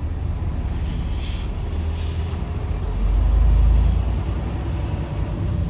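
Semi truck's diesel engine running as the rig moves slowly, a deep rumble that swells about three seconds in.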